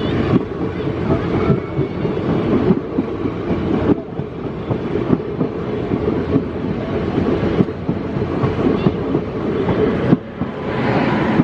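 Indian Railways passenger coaches rolling along the track, a steady rumble with wheels clattering over the rail joints. A faint steady whine comes in near the end.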